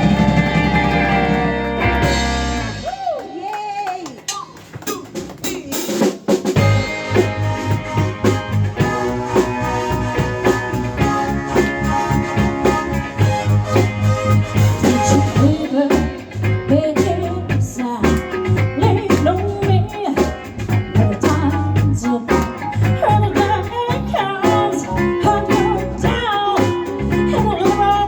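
Live blues-rock band playing an instrumental passage: guitar lines with pitch bends over drums and bass. The music thins out about three seconds in, and the full band comes back in a few seconds later.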